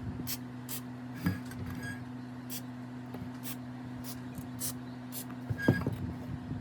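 Steady electrical hum with scattered light clicks and two louder metallic knocks, one about a second in and one near the end, each with a brief ring.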